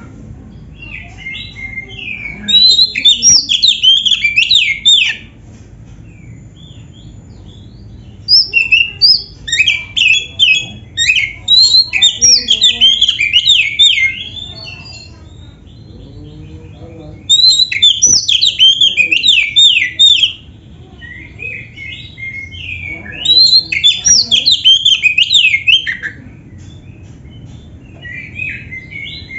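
Oriental magpie-robin (kacer) singing in bursts of fast, varied, sweeping high notes, each bout lasting about three to five seconds with short pauses between, five bouts in all. The song is filled with canary-like phrases (isian kenari). A low steady hum runs underneath.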